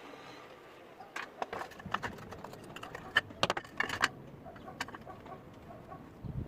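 Sharp metallic clicks and knocks of tools and machine parts being handled, clustered from about one to four seconds in, a few of them ringing briefly.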